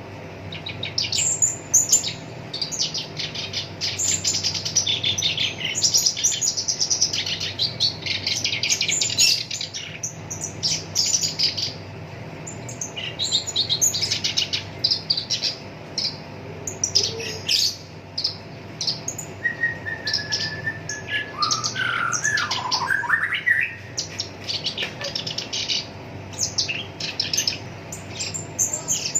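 Black-browed reed warbler singing a long, harsh, chattering song of rapid, high-pitched repeated notes in quick runs. About two-thirds of the way through, a lower phrase of gliding notes comes in.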